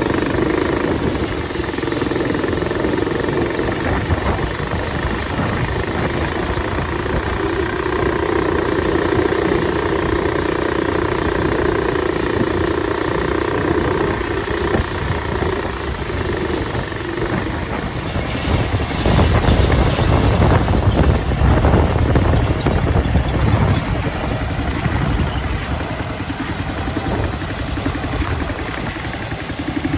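Combine harvester running steadily while harvesting soybeans, a constant machine hum with a steady whine. About two-thirds of the way through, a deeper rumble swells for several seconds and then eases off.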